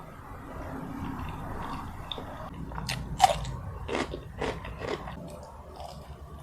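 Close-miked eating: biting into crunchy food and chewing. A handful of sharp crunches comes about halfway through, the loudest just after the middle.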